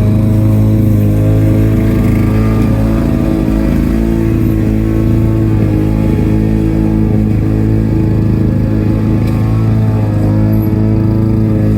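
Lawn mower engine running steadily at speed, with a brief unsteady stretch about three to five seconds in.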